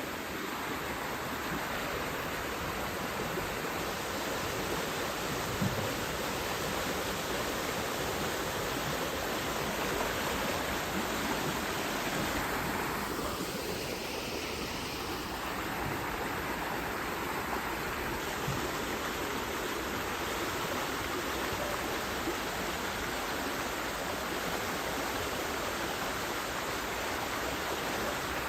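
Steady rushing noise, with a brief knock about six seconds in.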